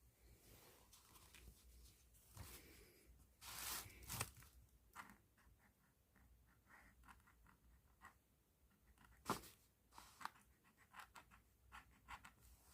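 Close-up pen and plastic bag sounds: scratchy strokes and small clicks with crinkling plastic, a louder rustle about three and a half seconds in and a sharp click a little after nine seconds.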